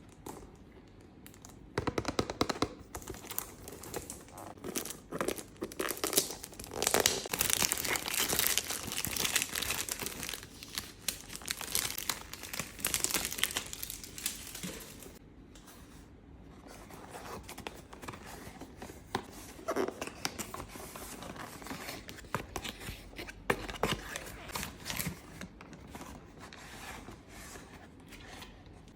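Packaging being torn and crinkled as a perfume box is unwrapped, dense and busy for the first half. After that come lighter handling sounds with a few scattered taps.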